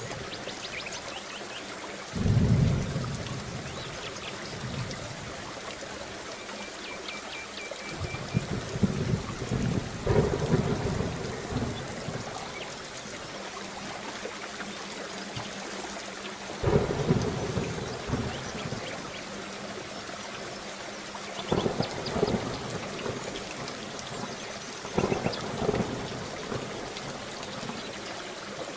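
Steady heavy rain with thunder rumbling several times, the first roll starting suddenly about two seconds in and others following every few seconds.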